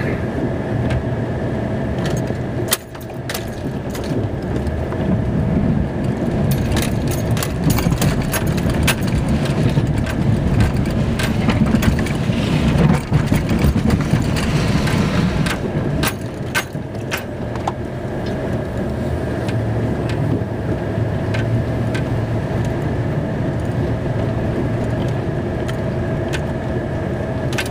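Pickup plow truck running while its plow blade pushes wet snow, mud and gravel across a gravel driveway, with scattered crunching clicks and knocks from the gravel over a steady engine rumble.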